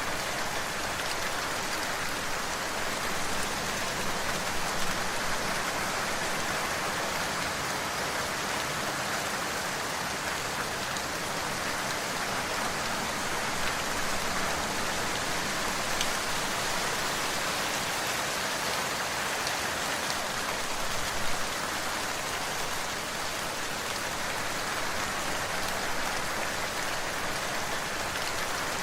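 Steady rain falling on a surface, an even hiss with scattered individual drop patters.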